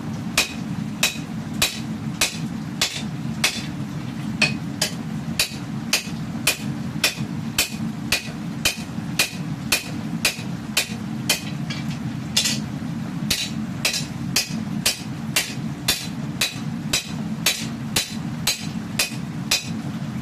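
Hammer blows on steel forging a katana blade, a steady rhythm of ringing strikes about two a second, over a continuous low hum.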